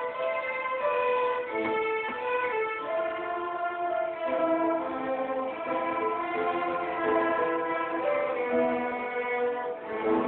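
Middle school intermediate string orchestra playing a piece of music, with several parts holding bowed notes together and moving to new notes about every second.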